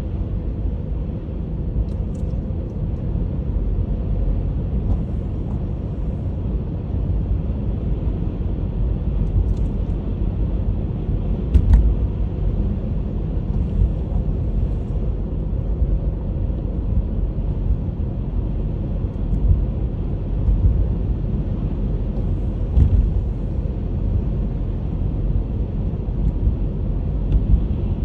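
Honda HR-V driving: a steady low rumble of road and engine noise, broken by a few short knocks, one about halfway through and another near the end.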